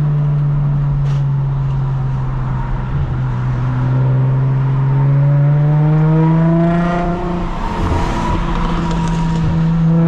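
Lexus IS350's 3.5-litre V6 exhaust, run through a mid-pipe without secondary cats and a muffler-delete axle-back. The engine note holds steady, then climbs in pitch for a few seconds as the car accelerates and falls back as the throttle lifts, with a few short pops on the lift-off.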